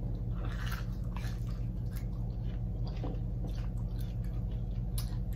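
Biting into and chewing a crispy deep-fried chicken wing: a run of irregular crackly crunches close to the microphone, over a steady low hum.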